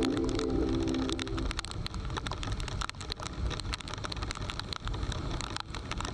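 Music fading out over the first second and a half, then the noise of riding in heavy rain: a rough, steady rush with many sharp crackles, like raindrops hitting the microphone.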